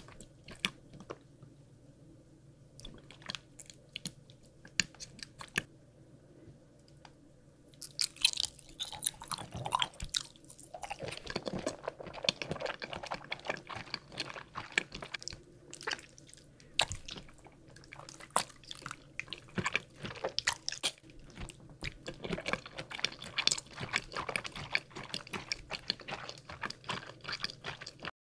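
A person chewing soft jelly and gummy candy close to the microphone, with many wet mouth clicks and smacks. The chewing is sparse at first and thickens after a few seconds, then cuts off suddenly just before the end.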